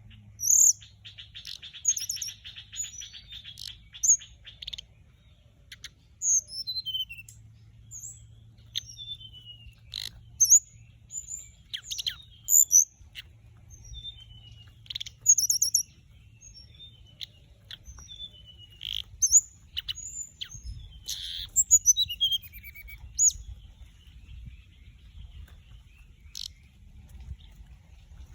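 Small flycatchers (the orange-breasted, white-bellied flycatcher used as a lure call) giving short, high chirps and whistled notes in irregular runs, with a rapid buzzy trill in the first few seconds.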